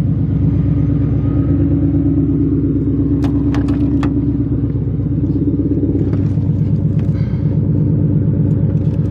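Jeep engine running steadily at a low, even speed, with a few sharp clicks about three to four seconds in.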